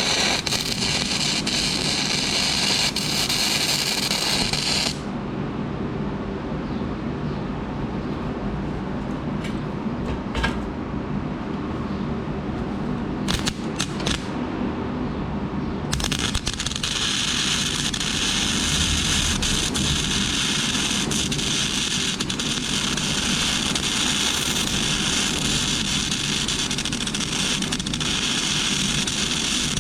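Flux-cored wire-feed arc welding: the arc crackles steadily for about five seconds and stops. After a pause with a low background hum and a few clicks, a second, longer bead starts about 16 seconds in.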